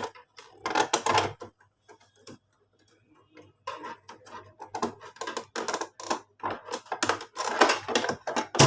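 Rapid clicks and rattles from the embroidery machine's upper cover being lifted and worked loose by hand: a short cluster about a second in, then a longer, denser run from about four seconds in.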